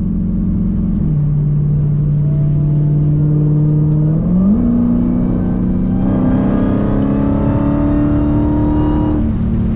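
Dodge Challenger Hellcat's supercharged 6.2-litre V8 under way: the engine note drops about a second in and holds lower, then rises quickly around four seconds in and keeps climbing slowly under acceleration, easing off near the end.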